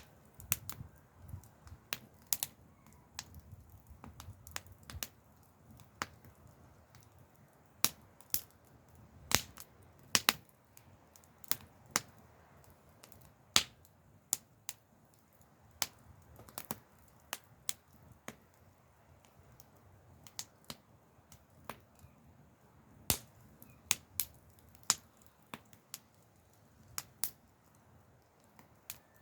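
Wood fire crackling: irregular sharp pops and snaps, about one or two a second, over a faint low hiss.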